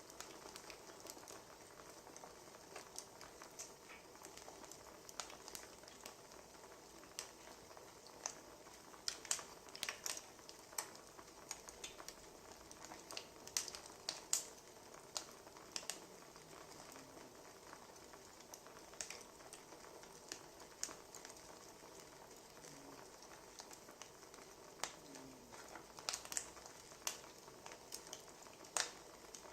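Wood fire crackling: irregular pops and snaps over a low, steady hiss, coming in small clusters now and then.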